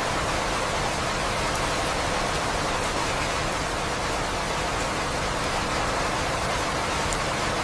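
Rain falling steadily, an even hiss with no breaks and no thunder.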